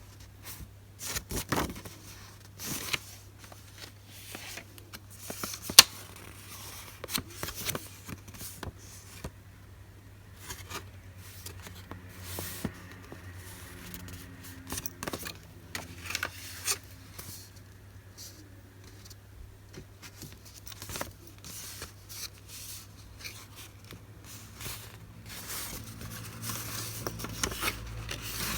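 Paper goods and their packaging handled at close range: rustling, crinkling and scraping, with many scattered taps and clicks over a faint low hum.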